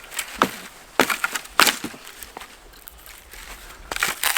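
Dry firewood being broken by hand: a handful of sharp, separate cracks and snaps with rustling between them.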